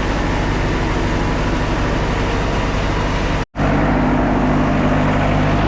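Diesel engine of a Wood-Mizer LT40 Super Hydraulic sawmill running steadily while it warms up. The sound cuts out for an instant about three and a half seconds in, then resumes.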